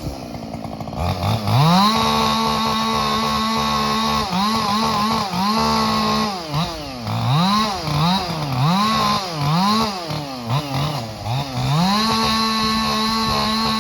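Cajun-ported Husqvarna 572 XP two-stroke chainsaw revving up from idle to a high, steady wide-open throttle, then blipped up and down about once a second, then held at full throttle again near the end.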